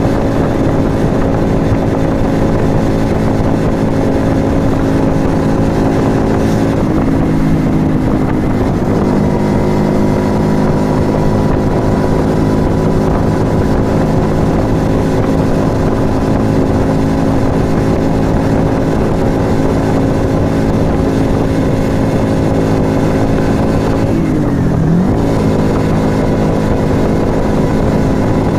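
Yamaha XV125 Virago's small air-cooled V-twin running at steady road speed through an aftermarket Turbo Kit exhaust. The engine note eases down to a lower pitch about eight seconds in. Near the end the revs dip sharply and climb back.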